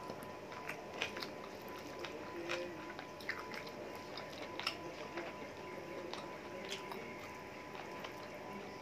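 Close-up eating sounds of a person chewing rice and chicken, with small, scattered wet clicks and squishes as fingers mix rice on a plate.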